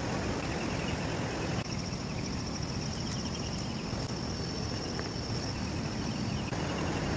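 Outdoor ambience: a steady low rumble with a high, rapidly pulsing insect-like trill from about two seconds in until past the middle.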